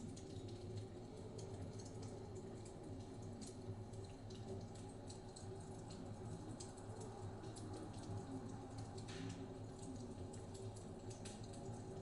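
Wood fire in a fireplace crackling, with irregular sharp pops and clicks over a steady low rumble.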